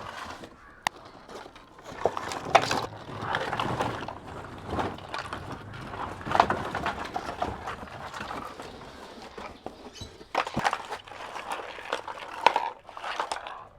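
Handling of unpacked cuttlefish bones and their packing: irregular rustling with many sharp clicks and taps.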